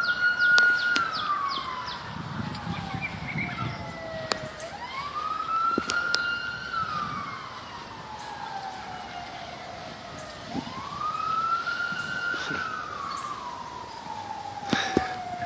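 Emergency vehicle siren on a slow wail, rising quickly, holding, then falling slowly, three times about five seconds apart. A few sharp clicks are heard over it.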